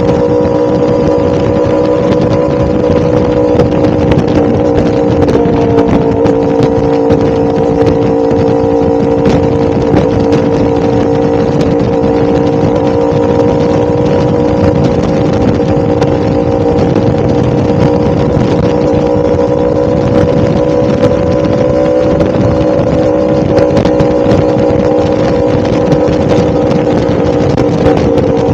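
1000cc motorcycle engine running at a steady cruise, its pitch holding nearly constant with only slight dips, over a continuous rush of riding noise.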